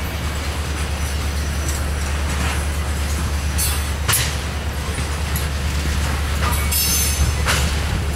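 Freight train of tank cars and covered hoppers rolling past, with a steady low rumble of wheels on rail. A few brief, high wheel squeals come about halfway through and again near the end.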